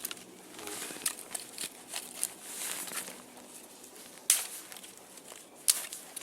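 Small dry twigs being snapped by hand, a few sharp cracks with rustling and crunching of the branches between them; the loudest snaps come about four and five and a half seconds in.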